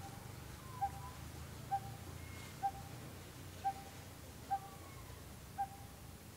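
A bird calling one short, clear note over and over at an even pace, about one call a second, seven times. Fainter gliding notes from other birds sit behind it.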